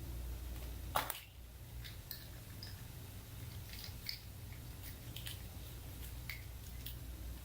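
Small plastic clicks and taps from relay-kit parts and wiring being handled and fitted, with one sharper click about a second in, over a low steady hum.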